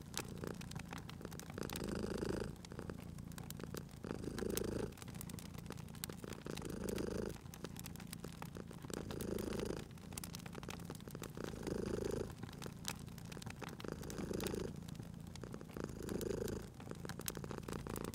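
Domestic cat purring in slow swells about every two and a half seconds, with a wood fire crackling in many small snaps throughout.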